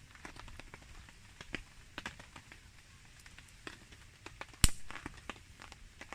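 Campfire wood crackling, with scattered small pops and one loud sharp pop about two-thirds of the way through.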